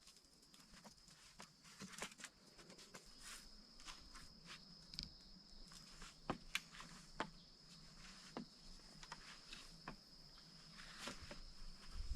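Faint jungle ambience: a steady, high insect drone runs throughout, with scattered light clicks and knocks.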